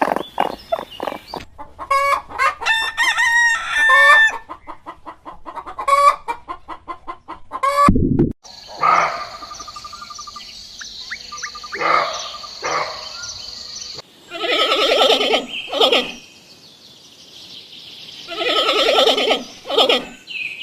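Chickens clucking in quick short calls, then a rooster crowing twice, each crow about two seconds long, near the end.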